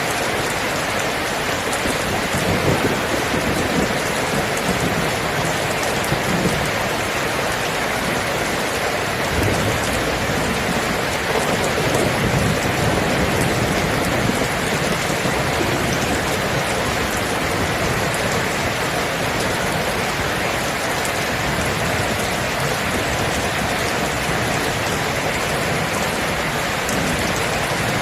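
Steady heavy rain falling on surfaces, with a low rumble of distant thunder swelling about halfway through.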